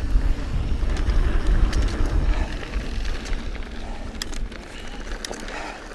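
Wind buffeting the microphone over the sound of a mountain bike rolling on a dirt trail, with scattered clicks and rattles from the bike. It grows quieter over the second half as the bike slows.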